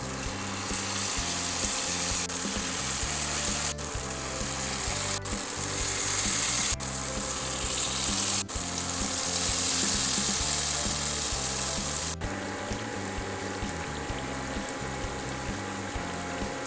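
Sweet potato pancakes sizzling as they fry in hot oil in a pan, a steady hiss that breaks off sharply several times, is strongest in the middle and weaker near the end. Background music plays along with it.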